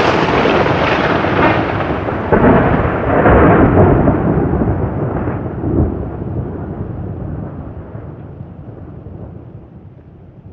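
Thunder from a lightning strike: a loud rolling rumble with renewed surges a couple of seconds and three or four seconds in, then a long gradual fade.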